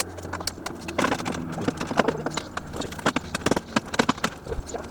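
Irregular clicks and knocks of hand tools and parts being handled, several a second, some with a short metallic ring, as the front end of a car is being stripped.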